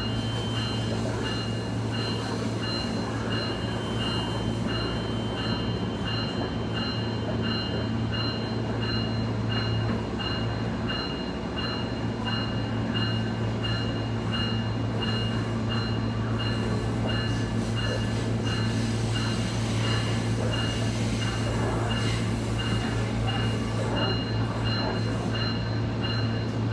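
Steady drone of a SMART diesel multiple-unit railcar running along the line, heard from inside the passenger car, with a regular high ticking over it.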